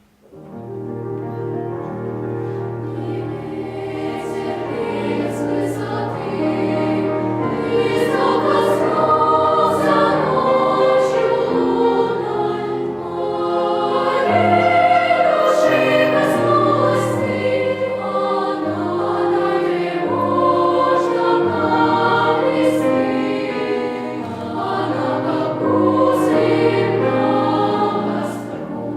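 Children's choir singing a romance arranged for children's voices and piano, with piano accompaniment; the music begins right at the start after silence.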